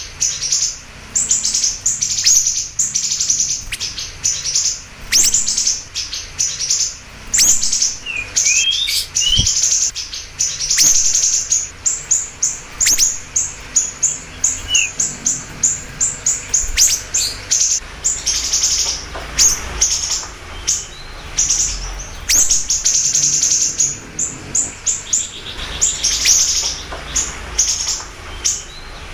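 A siri-siri songbird singing hard: a continuous run of rapid, high-pitched chirps and short trills, the kind of energetic song kept as a tutor recording for caged birds.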